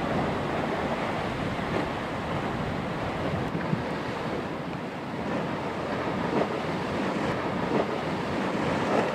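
Heavy surf breaking and washing on a beach, a steady rushing roar, with wind buffeting the microphone.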